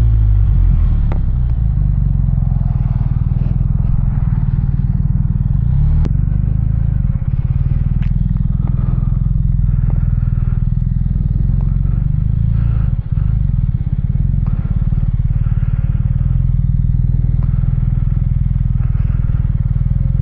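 BMW R 1250 RT's boxer-twin engine running steadily at low revs, with a few light clicks and clatters.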